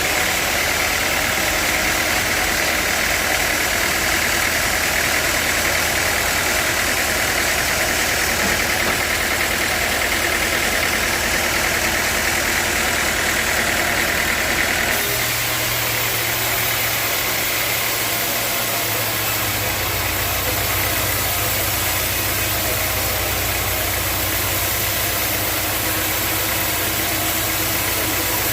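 Sawmill machinery running steadily and loudly. Its sound changes abruptly about halfway through.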